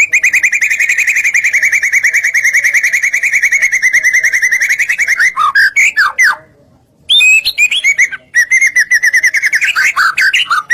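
White-rumped shama (murai batu) singing loudly. It opens with a long, rapid trill of quick repeated notes lasting about five seconds, then gives a few varied whistled notes. After a short pause about six and a half seconds in, it sings more varied phrases and a second rapid trill near the end.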